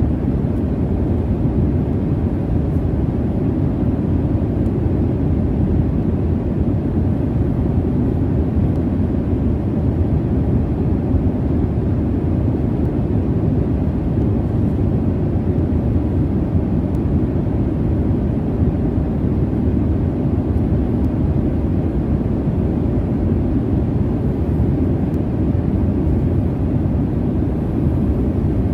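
Steady low rumble of jet airliner cabin noise: engine and airflow noise heard from inside the cabin, even and unchanging, with most of its weight in the deep range.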